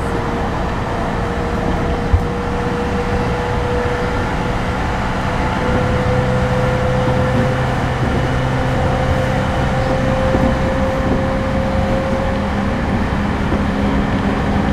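Running noise inside a JR East E231 series suburban electric train car refitted with Hitachi IGBT VVVF inverter equipment: steady rail and wheel rumble under a thin motor whine that slowly rises in pitch, with lower hum tones joining about halfway through. One sharp knock about two seconds in.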